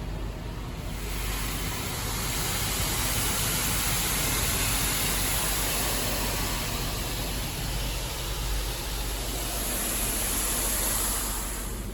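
In-bay automatic car wash running a pass over the car: a steady hissing rush that builds up about a second in and cuts off near the end, over a low rumble.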